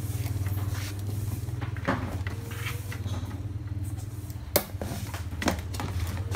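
Handling noise as the welder's box is opened: light rustling and a few sharp knocks, over a steady low hum.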